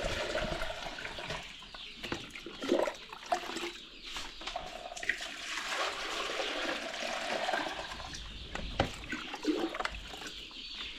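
Water being poured to refill a chick drinker, an uneven splashing and gurgling that swells and fades.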